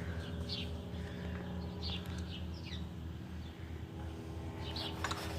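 A few short, high bird chirps over a steady low hum, with faint light clicks near the end.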